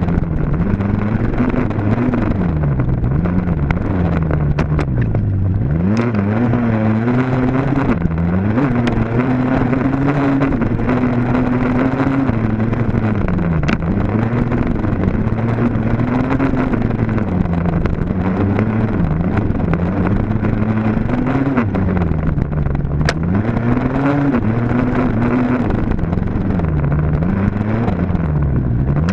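Dirt bike engine revving up and down again and again, its pitch climbing and dropping every second or two as the rider works the throttle and gears around the course, with a few sharp ticks along the way.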